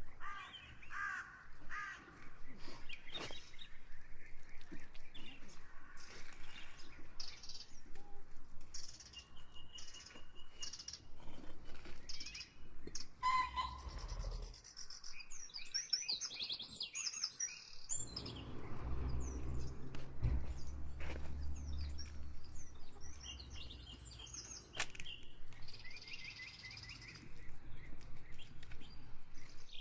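Birds chirping, with many short, rapid calls, and a low rumble underneath for a few seconds past the middle.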